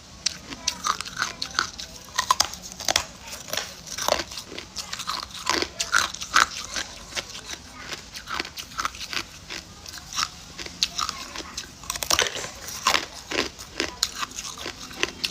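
Hard ice cubes being bitten and chewed. A steady run of sharp, irregular crunches and cracks, several a second.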